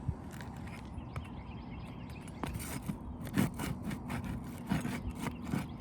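A tool scraping and clicking against roof shingles in a run of short, sharp scrapes starting about halfway through, as a roofing nail driven through the shingle's matting is worked at and won't come free. A low steady hum runs underneath.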